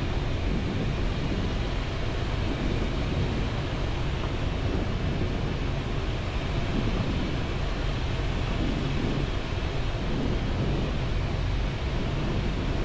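Steady rushing noise on the flight deck of a Boeing 737 MAX 8 on final approach: airflow over the nose and windscreen mixed with engine noise, even in level with no separate events.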